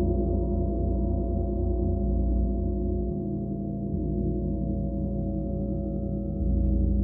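Large gong sounding a sustained, dense, low drone with a slow pulsing beat in the bass. It eases off a little about three seconds in and swells back up near the end.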